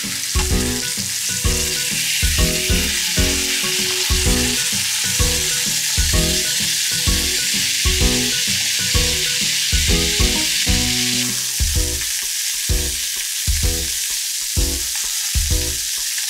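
Zucchini halves sizzling steadily in hot oil in a nonstick frying pan, mixed with background music that has a steady beat.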